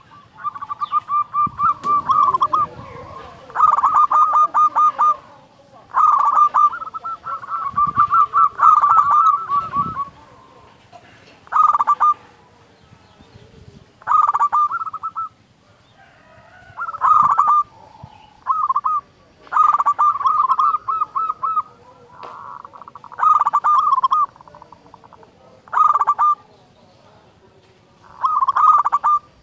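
Local zebra dove (perkutut) cooing: repeated phrases of quick staccato coos at much the same pitch, each lasting a second or two, with short gaps between them.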